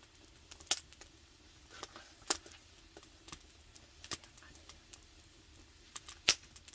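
Wood campfire crackling and popping: irregular sharp snaps over a low hiss, a few of them louder than the rest. The wood is slightly damp and burns unevenly.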